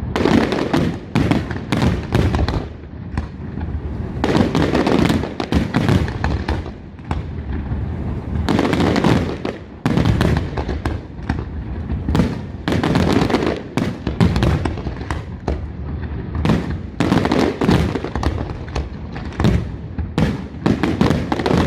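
Aerial firework shells bursting in a dense barrage: a rapid string of sharp bangs, with louder clusters of explosions every few seconds.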